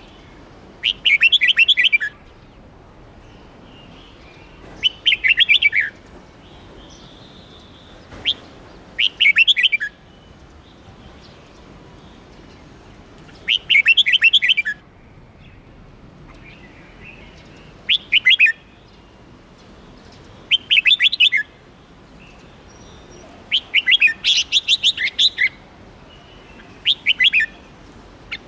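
Red-whiskered bulbul singing short, rapid whistled phrases, repeated every few seconds with short pauses between them.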